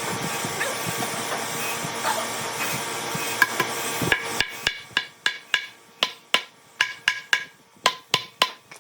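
Steady workshop noise, then a run of sharp knocks with a short ring, about three a second, like hammer blows in the workpiece.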